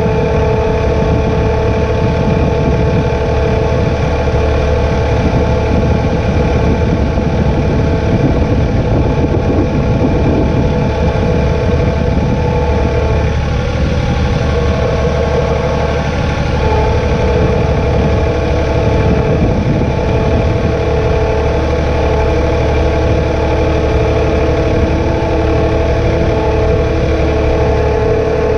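John Deere 2032R compact tractor's diesel engine running steadily, with a steady whine on top.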